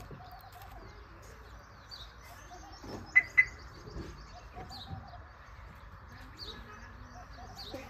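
Birds chirping and calling, with two sharp, loud high chirps in quick succession about three seconds in.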